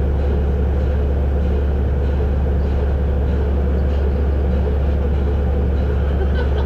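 Volvo B7RLE bus's six-cylinder diesel engine running with a steady low drone, heard from on board.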